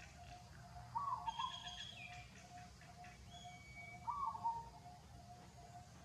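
Birds calling: a short call twice, about three seconds apart, with higher thin whistles between, over a faint quick pulsing note.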